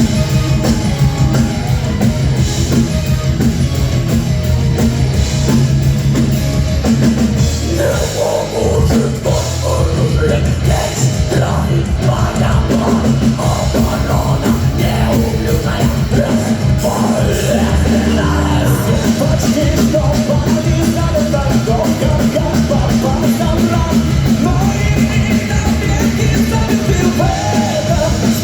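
Heavy metal band playing live: drum kit, distorted electric guitars and bass, with a wavering melodic lead line over them.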